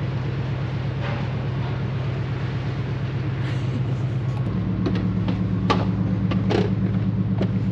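Steady, low engine drone with a fast even pulse, stepping up in pitch about four and a half seconds in.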